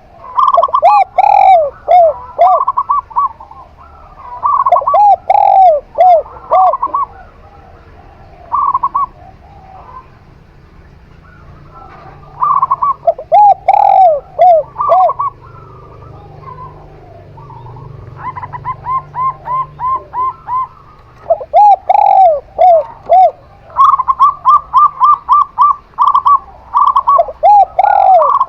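Zebra dove (perkutut) and spotted dove (tekukur) cooing. Two kinds of coo phrases, one higher-pitched and one lower, alternate and overlap, each a quick run of short notes repeated every few seconds, with a brief lull in the middle.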